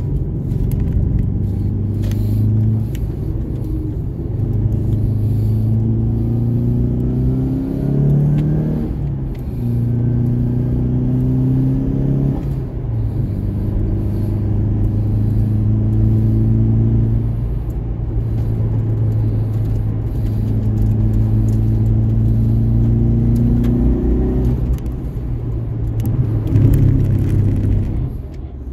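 2003 Subaru Impreza WRX STi's turbocharged flat-four engine under hard acceleration, its note climbing in pitch for a few seconds and dropping back again and again as the car accelerates, shifts and slows.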